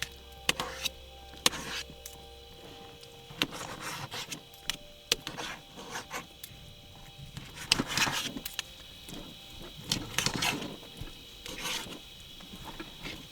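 Utensils scraping and clicking against dishes and pans as food is served out, a string of sharp clicks and short scrapes, over a steady faint high-pitched drone.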